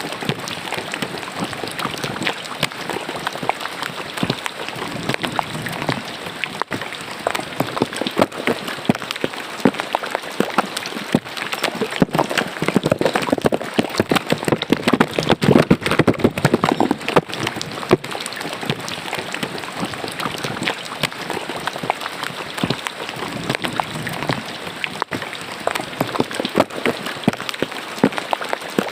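Rain falling into a drainage ditch: a dense, steady patter of drops on water, a little heavier about halfway through.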